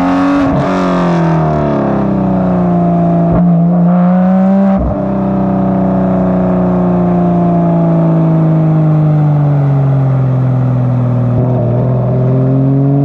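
Porsche 991.2 GT3 RS flat-six with Dundon street headers and cat-delete pipe, under load on the road. Its note climbs, breaking briefly three times in the first five seconds, then falls slowly for several seconds and rises again near the end.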